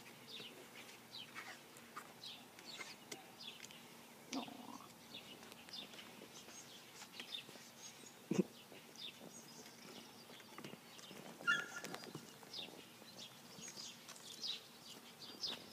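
Faint, frequent bird chirps in the background, with a single sharp knock about eight seconds in.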